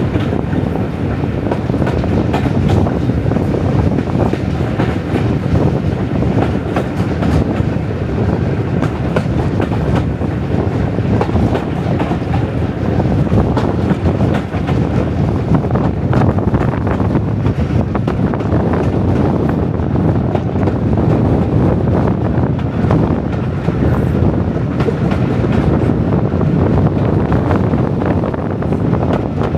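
Diesel-hauled heritage passenger train running along the line: a steady rumble with the wheels clicking over the rail joints.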